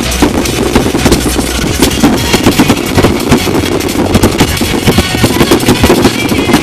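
Pop music playing loudly over a dense, irregular run of firework bangs and crackles.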